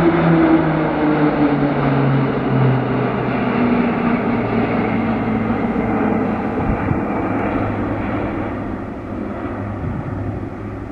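PZL-130 Orlik turboprop trainer aircraft flying past. Their propeller drone drops in pitch over the first few seconds as they pass, then holds steady and slowly fades.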